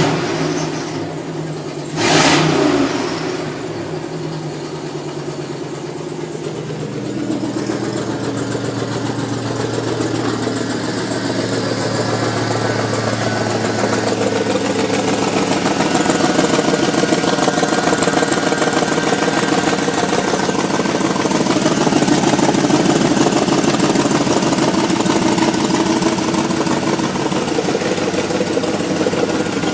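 2003 GMC Yukon's V8 engine running, with a brief loud noise about two seconds in. The engine note then climbs over several seconds and holds at higher revs. It carries a strange sound that the owner cannot place and suspects comes from the exhaust.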